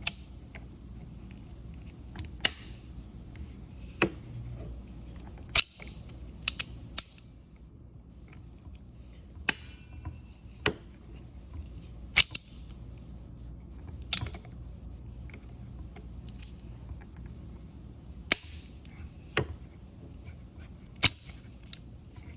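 Sharp metal clicks and snaps from locking pliers (vise grips) and the shifter parts as the tendon is backed out, about a dozen at uneven intervals over a steady low hum.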